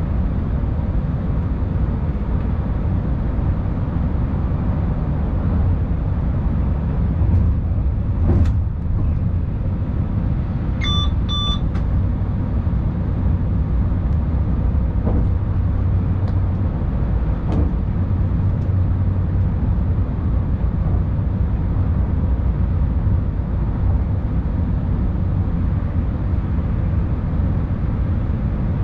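Tilting InterCity train running at speed, heard from the driver's cab as a steady low rumble. About eleven seconds in, a short double electronic beep sounds, and there are a few faint clicks.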